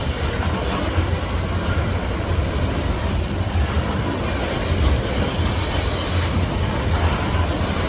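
BNSF coal train's cars rolling past, a steady low rumble of steel wheels on the rails.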